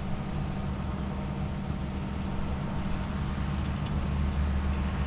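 Small alpine tractor's engine running steadily with a low, even hum as it rows up cut grass.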